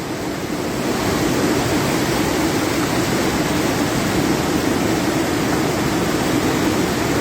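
Floodwater from an overflowing river rushing steadily and loudly, a continuous roar of moving water with no breaks.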